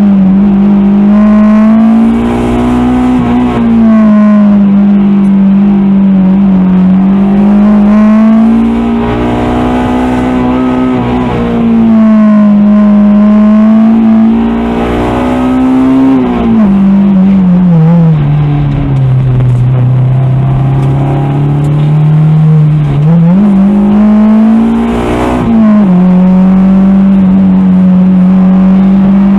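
Honda DC2 Integra's four-cylinder VTEC engine, a B18C2 block with a B16A2 head and TODA cams, heard from inside the car at high revs on a winding road. The revs climb and fall with the throttle and drop sharply twice, just after the start and near the end. A few seconds past the middle they sink lower and then climb back.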